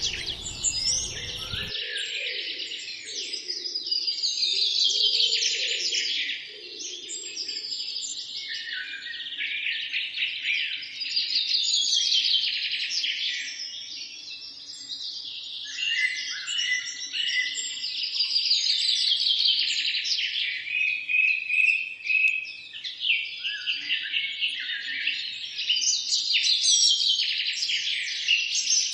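A dense forest chorus of many songbirds singing at once, rapid chirps and trills overlapping without a break. A low rumble of noise cuts off suddenly about two seconds in.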